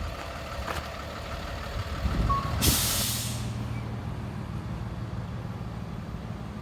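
Truck air brakes letting off a short, sharp hiss of air about two and a half seconds in, just after a brief single beep. A heavy truck engine then idles steadily.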